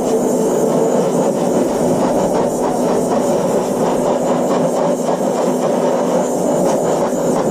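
Continuous, steady noise of metalworking on a steel sculpture, with a faint steady hum underneath and no pauses.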